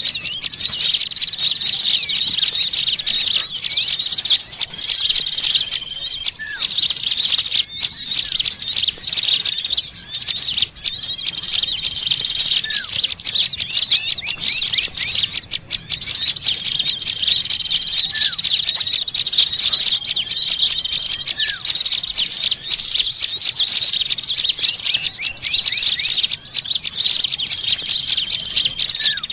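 Dense, unbroken chattering and chirping of many small songbirds, a bird-lure (pikat) recording used to draw in small birds. Long thin held whistles and short rising notes recur every few seconds over the twittering.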